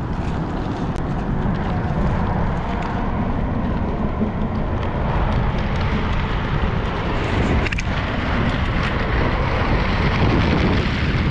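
Inline skate wheels rolling steadily over a paved trail, with wind rushing on the microphone, and a single sharp click about three-quarters of the way through.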